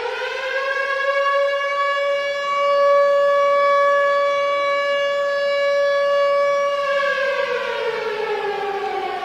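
Civil defense warning siren sounding one steady high wail, which starts to wind down and fall in pitch about seven seconds in.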